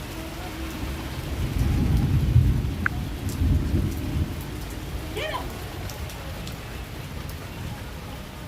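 Heavy monsoon rain falling steadily, with a deep rumble of thunder that swells about a second in and dies away a few seconds later.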